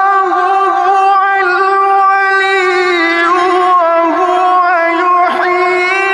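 A Quran reciter's voice holding one long melodic note with small ornamental turns and wavers in pitch, a drawn-out vowel of chanted recitation.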